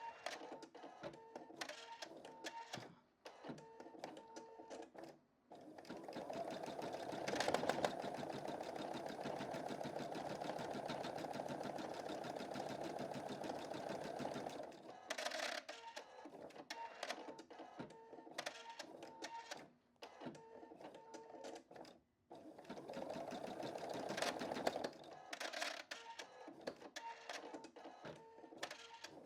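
Computerized embroidery machine stitching a design, its needle running in a fast steady rattle. Two long stretches of louder, denser stitching come about five seconds in and again near the end, broken by a few short pauses.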